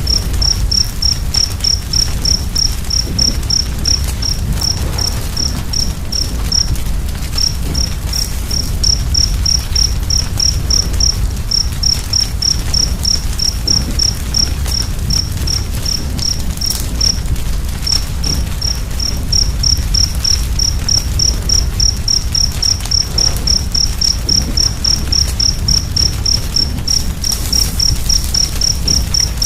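A cricket chirping steadily at about four high-pitched chirps a second, pausing briefly twice, over the low rumble and scattered crackles of a wood fire.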